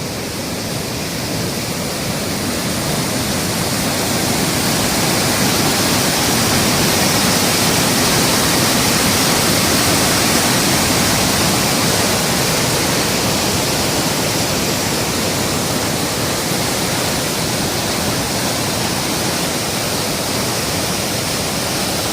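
Kovai Kutralam waterfall in flood: a loud, steady rush of falling water that swells over the first few seconds and then holds.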